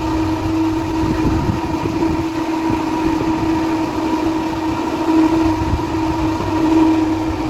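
Heavy machinery running steadily, a constant mechanical hum with a low rumble underneath and no change in pace.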